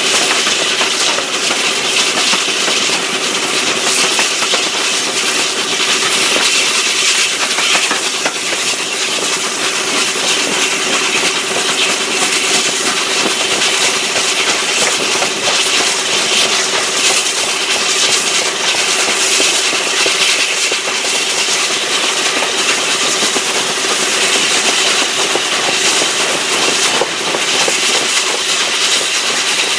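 Steam-hauled passenger train running at speed, heard from an open carriage window: a steady rush of wheels on the rails and passing air, with a steady hum under it.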